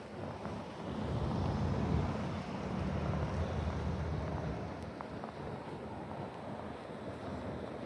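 Snowy city street ambience: a vehicle passes, its low rumble swelling about a second in and fading by about four seconds, over steady wind noise on the microphone.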